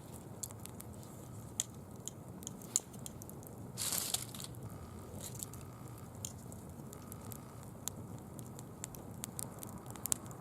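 Campfire burning fallen leaves, crackling with sharp irregular pops, and a brief louder hissing rustle about four seconds in.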